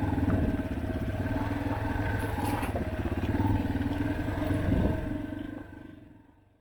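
Dirt bike engine running steadily, with a brief clatter about two and a half seconds in, then fading out near the end.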